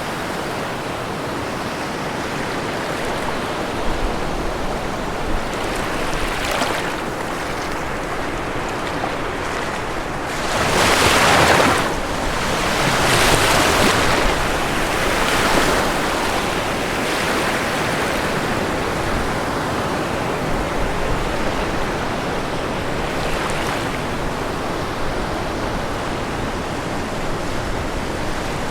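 Ocean waves breaking on a shore over a steady rush of surf: a few waves swell up and wash in, the biggest about eleven seconds in and others around thirteen and fifteen seconds.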